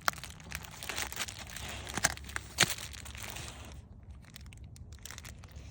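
Packaging being handled and opened to unwrap a new dog ball: a run of crinkling with sharp crackles that stops about four seconds in.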